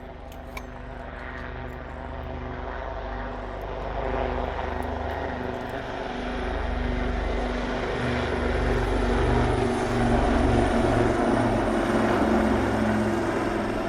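Royal Navy Wildcat helicopter approaching, its turbine engines humming over a low rotor beat and growing louder.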